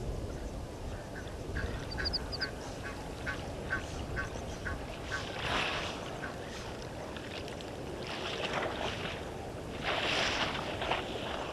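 Birds calling at a waterhole: a run of short repeated call notes, about two and a half a second, over the first five seconds, with a couple of quick high trills. Later come several louder, harsher noisy bursts, about halfway through and again near the end.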